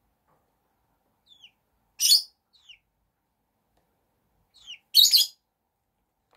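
Chicken calling: a few short, falling peeps and two loud, harsh squawks about three seconds apart.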